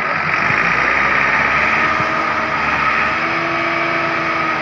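Tractor diesel engine running steadily and loudly, with a steady whine over the engine noise.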